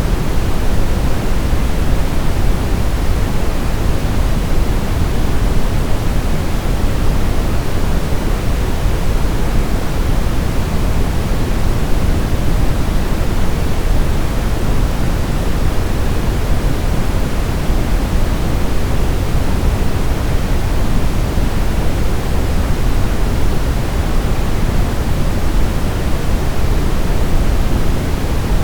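Brown noise: a steady, deep rushing hiss with most of its energy in the low end, unchanging throughout.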